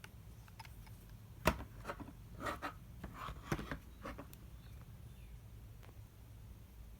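Handling sounds of packaging: a sharp click about a second and a half in, then a couple of seconds of short rustles and light knocks.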